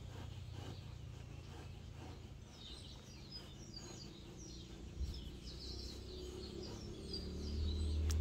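Small birds chirping faintly: many short, high chirps through the middle stretch, over a low steady rumble that grows louder near the end.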